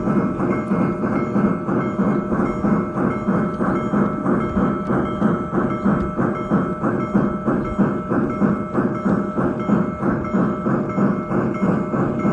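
Steam locomotive exhaust chuffing in a quick, even rhythm, with a faint steady ringing over it, the sound of a Union Pacific Big Boy under way.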